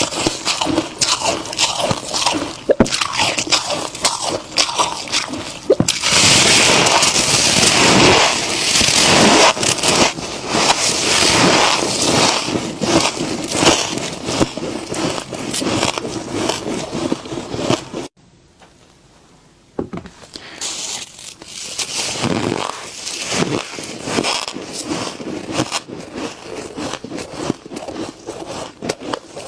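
Thick freezer frost being scraped and crunched up close: a dense run of crackling scrapes and crunches, busiest in the first half, broken by a silent pause of about two seconds a little past the middle before it resumes.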